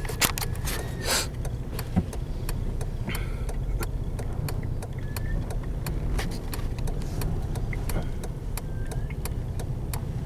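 Car driving, a steady low rumble of road and engine noise, with many short sharp ticks scattered throughout.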